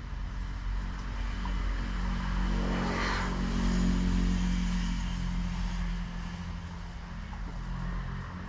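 A car engine running steadily, with a swell of louder noise about three seconds in that eases off over the next few seconds.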